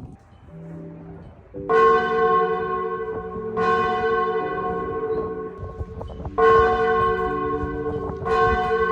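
A bell struck four times at roughly two-second intervals, each stroke ringing on until the next.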